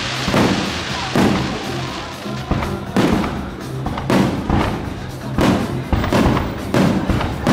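Aerial firework shells bursting in a rapid string of bangs, about one or two a second, over music with a steady bass line.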